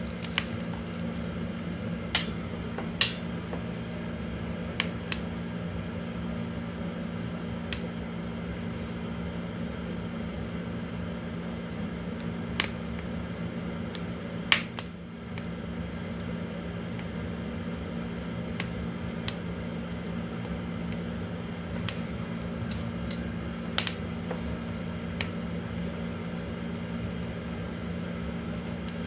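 Oak firewood burning in an open wood-fired boiler, crackling with about a dozen sharp snaps and pops scattered irregularly over a steady low hum.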